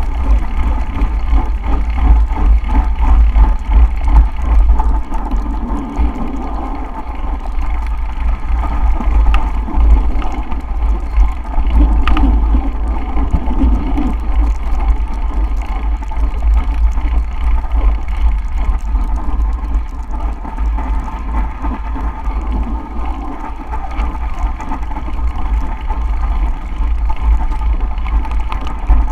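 Wind buffeting the microphone in a continuous, gusting low rumble, with a steady hiss of moving air over it.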